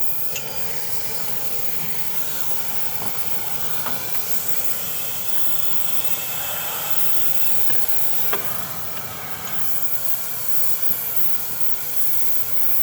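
Pneumatic air hammer running in one long continuous burst, a loud, steady hissing chatter with a few brief clicks, as it works at a seized EGR valve to break it loose.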